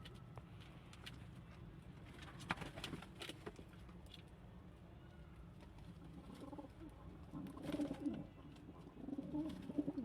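Pigeons cooing: low, throaty pulsing calls starting about two-thirds of the way in and again near the end, with a few sharp clicks and taps earlier on.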